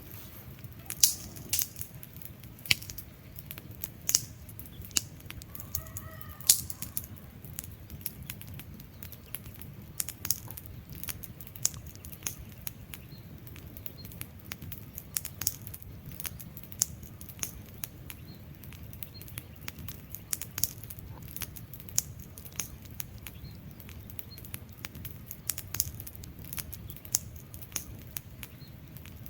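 Wood fire burning, with frequent irregular sharp crackles and pops over a steady low rumble of flame. A brief faint chirp-like call sounds about six seconds in.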